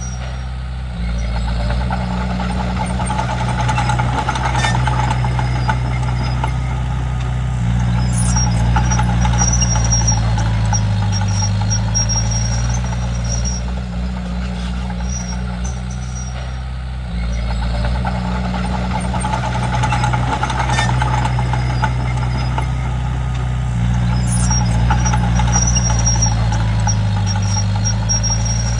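Komatsu D31P bulldozer's diesel engine running under load, with a steady low drone. It picks up a second in, eases off briefly around the middle, then builds again as the dozer pushes.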